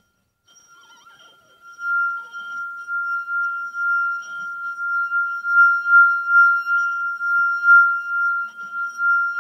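Wine glass singing as its rim is rubbed round: one steady high ringing tone, faint at first and swelling in about two seconds in, then wavering in loudness as it goes on.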